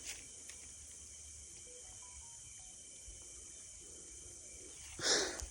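Insects trilling steadily in the bush, a high continuous chorus with several held tones, and a short burst of rustling noise about five seconds in.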